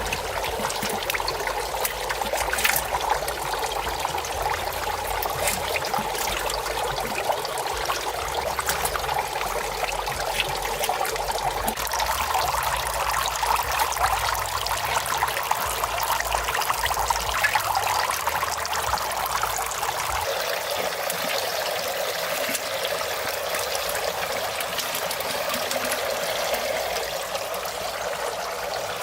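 Water trickling and pouring steadily, with a small change in its sound about twenty seconds in.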